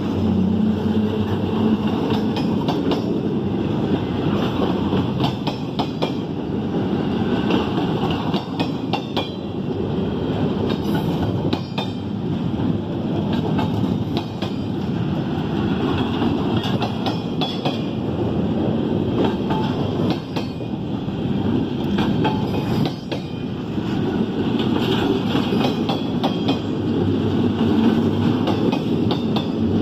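Double-stack intermodal container train rolling steadily past: a continuous rumble of well-car wheels on the rails, with repeated clicks as the wheels cross rail joints.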